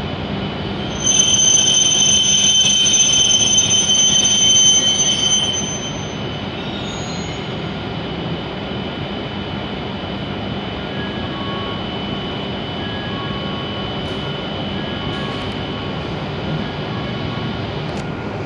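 W7 series shinkansen train arriving slowly at a platform and coming to a stop. A loud, high-pitched squeal starts about a second in and fades out after about five seconds, and a steady rolling hum with a faint high tone follows.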